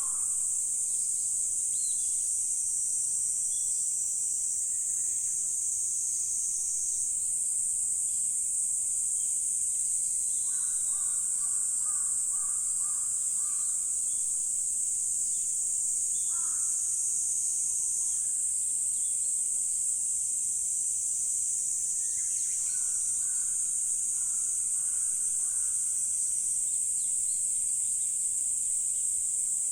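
A steady, high-pitched insect chorus, with birds calling every few seconds over it in short runs of repeated notes.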